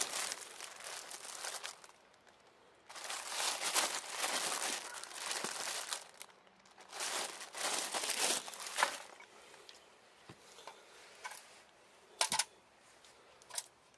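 Crinkling and rustling in three bursts of a couple of seconds each, as of dry material being handled, then a few short sharp clicks and knocks near the end.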